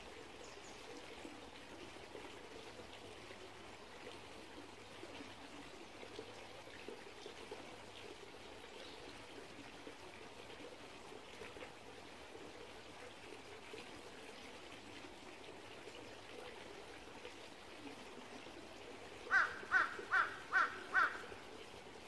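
A small stream trickles steadily over stones. Near the end a bird gives five harsh calls in quick succession, loud above the water.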